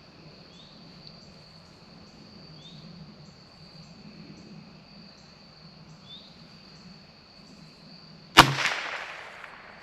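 A single .22 LR rifle shot from a bolt-action CZ 457 about eight seconds in, its report trailing off over about a second. Before it, crickets chirp steadily.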